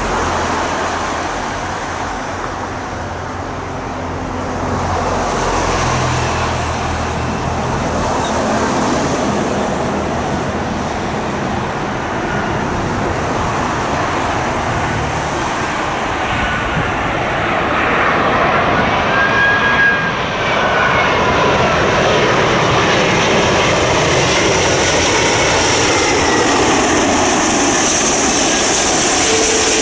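A large jet airliner on final approach passing close by. Its engine noise builds over the first half and then stays loud, and whining engine tones bend in pitch as it goes past.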